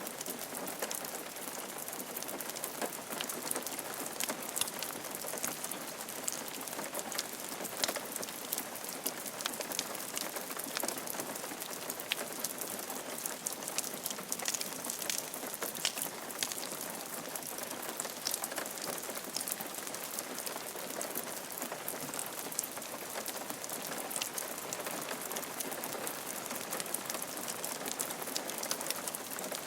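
Steady rain falling on a roof, with a constant patter of many individual drops.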